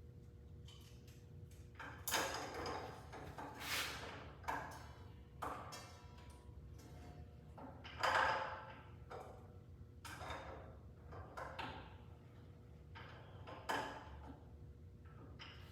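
Metal tools and a saw blade being handled while a miter saw blade is changed: irregular clinks and clanks, several with a short metallic ring, the loudest about 2, 4 and 8 seconds in.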